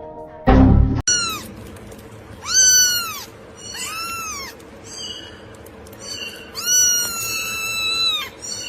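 A cat meowing several times in high-pitched calls that rise and fall, the last one long and drawn out. A short, loud bump comes just before the first meow.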